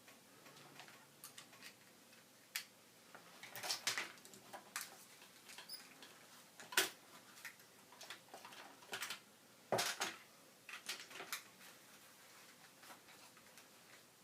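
Faint, irregular clicks, taps and rustles of microphone and recording equipment being handled, with sharper knocks about seven and ten seconds in.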